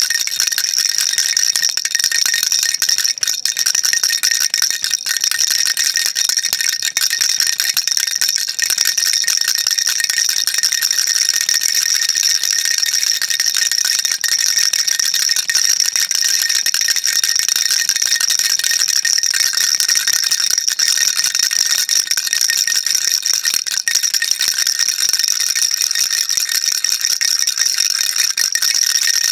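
Baby rattle shaken without a break: a dense, even, high-pitched rattling that keeps a steady level throughout.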